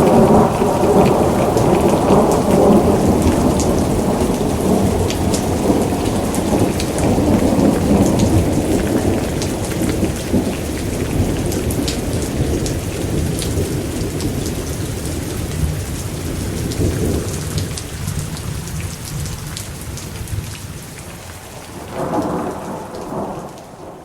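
Heavy rain falling steadily, with a long roll of thunder that slowly dies away over the first half. A second, shorter rumble comes near the end as the whole sound fades out.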